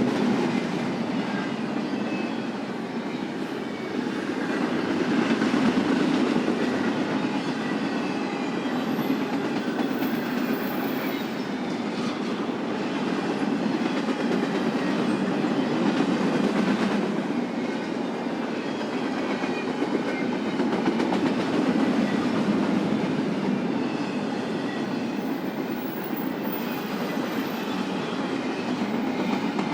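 Long BNSF intermodal freight train rolling past: a steady wheel-on-rail rumble and clatter that swells and eases as the cars go by.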